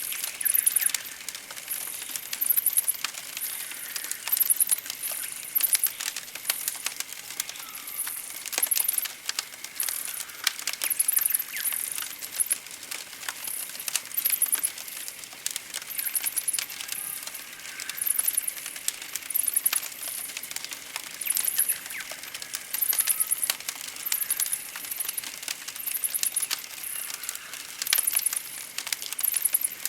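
Campfire crackling with frequent sharp pops, over a run of very high, thin chirping trills that repeat about once a second.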